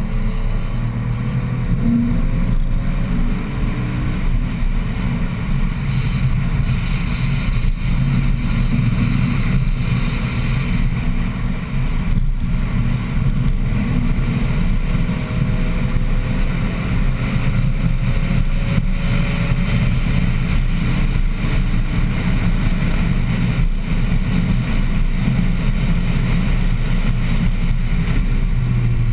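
BMW 1M Coupé's twin-turbo 3.0-litre straight-six running hard at track speed, heard from inside the cabin as a loud, steady drone whose pitch slowly shifts as it pulls.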